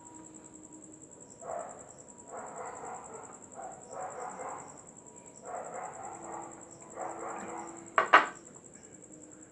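Close-up eating sounds from someone eating rice and chicken curry: repeated bursts of chewing and mouth noise, then a single sharp click or knock about eight seconds in.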